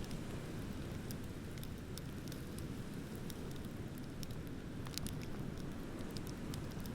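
Beach bonfire crackling, with irregular sharp pops and ticks several times a second, over a steady low rush of ocean surf.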